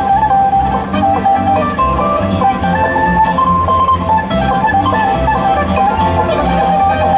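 Bluegrass band playing an instrumental break: plucked strings carrying a melody over a steady, pulsing bass beat.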